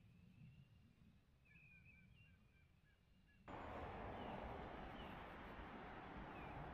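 Faint birds chirping in short twittering calls over near silence. About halfway through, a steady even hiss cuts in abruptly and holds, with birds still faintly chirping over it.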